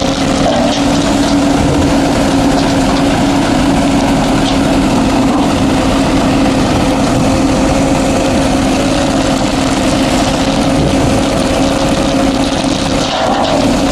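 Heavy diesel engine of construction machinery running steadily at a constant speed, with an even hum.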